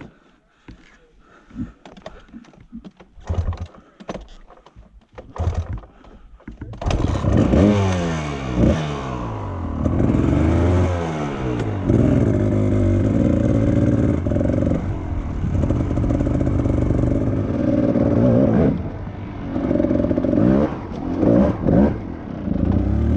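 A few scattered clicks and knocks, then about seven seconds in a dirt bike engine starts and runs, revving up and down unevenly. It sounds like it needs a new spark plug.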